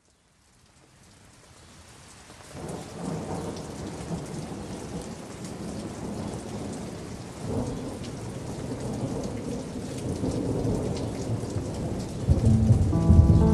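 Steady rain falling with rolls of thunder, fading in from silence over the first couple of seconds, the thunder swelling twice. Near the end, music with sustained tones begins over the rain.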